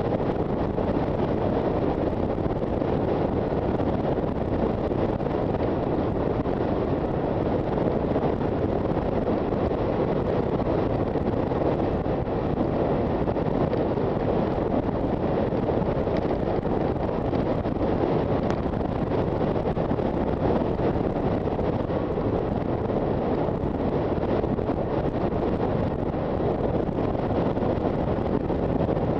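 Steady wind rush over the microphone of a moving Honda FT400 motorcycle, with the bike's running and road noise underneath.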